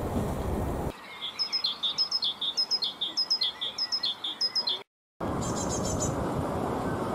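A small bird chirping rapidly, about four short high chirps a second, between a steady low rushing noise that stops about a second in and returns just after five seconds; the sound cuts out completely for a moment just before five seconds.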